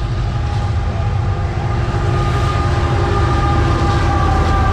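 Diesel locomotives of a CSX freight train passing close by. A deep engine rumble with a steady whine over it grows louder about two seconds in, as the lead units come alongside.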